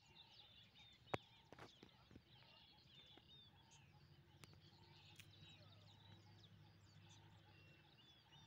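Faint chorus of small birds chirping and trilling, with a sharp click about a second in and a low steady hum coming in after the midpoint.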